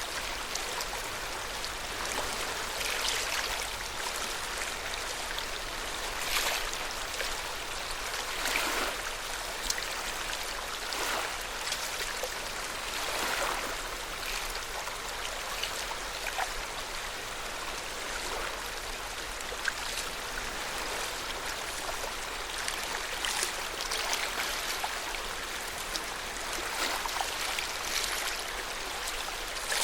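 Lake water lapping at the shore: a continuous gentle wash broken by small irregular splashes every second or few.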